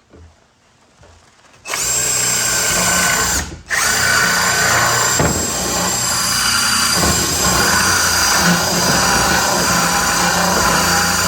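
Electric woodworking power tool starting up about two seconds in with a rising whine, then running steadily at full speed while it works a board; it cuts out for a moment about a second and a half later and runs on.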